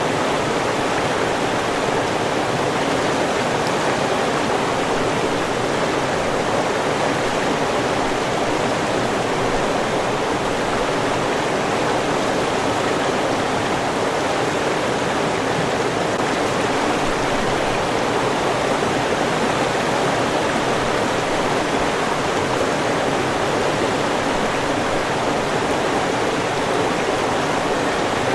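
River water rushing over rocks, a steady, even flow with no breaks.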